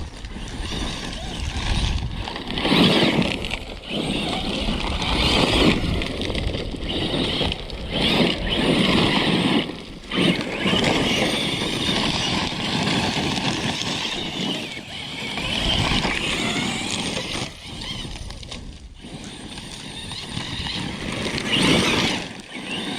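Large brushless electric RC truck driving over dirt, its running noise swelling and fading again and again as the throttle is blipped.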